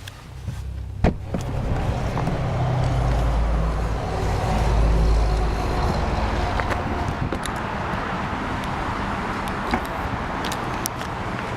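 A motor vehicle's engine rumbling nearby with road and tyre noise. It swells over the first couple of seconds and then holds steady. A single sharp click comes about a second in.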